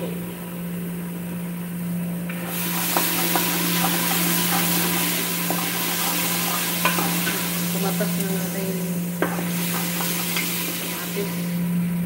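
Whole spices sizzling in hot oil in a metal pot, stirred with a utensil that clicks and scrapes against the pot. The sizzle swells about two seconds in and dies down near the end, over a steady low hum.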